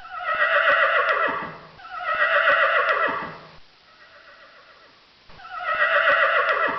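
Horse whinnying three times, each call about two seconds long and falling in pitch at its end, with a short pause before the third.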